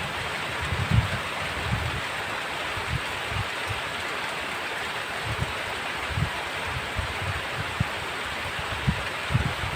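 Heavy rain pouring steadily, with irregular low thuds scattered through it.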